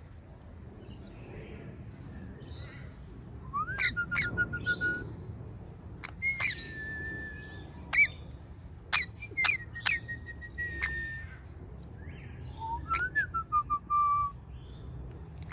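Bird calls: four whistled calls, each a rising slide followed by a quick run of short level notes, with a few sharp clicks between them. A steady high-pitched drone runs underneath.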